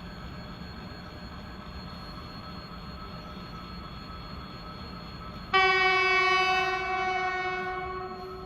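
A train horn blows once, about five and a half seconds in: a single high note that starts suddenly, holds for about three seconds and slides slightly down in pitch as it fades away.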